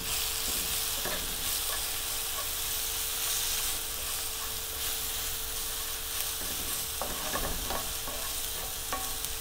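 Onion-tomato masala with ground spices sizzling steadily in a frying pan as it is stirred, with a few light scrapes against the pan near the end.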